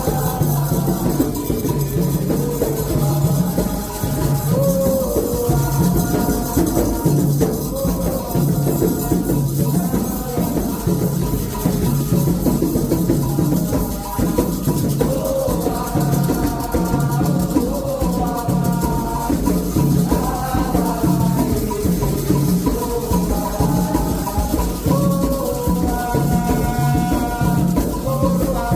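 Candomblé toque: atabaque hand drums keeping a steady repeating rhythm with a shaken rattle, under sung ritual chants.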